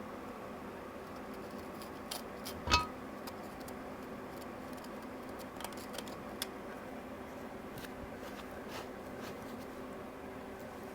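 Metal tools and engine parts handled on a workbench: scattered light clicks and taps, and one sharp metallic clink with a brief ring nearly three seconds in, over a steady hum.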